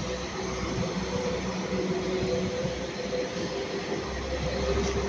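Transport for Wales Class 197 diesel multiple unit passing: a steady engine drone with a few held tones over rolling rumble, the low rumble swelling about four seconds in.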